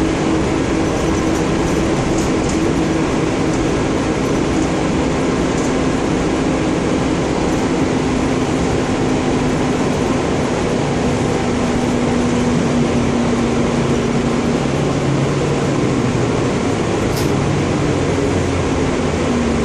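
Engine of a 2014 Gillig Low Floor transit bus running steadily, a loud, even hum whose main tone sags slightly lower over the last few seconds.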